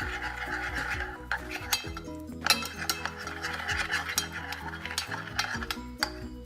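A spoon stirring honey and soy sauce in a small cup or bowl, clicking and clinking against the sides at an uneven pace, over background music.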